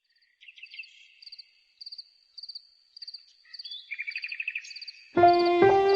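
Insects chirping in short repeated pulsed trills, with a second, lower trill joining midway. A little after five seconds in, music with bowed-string notes comes in suddenly and much louder.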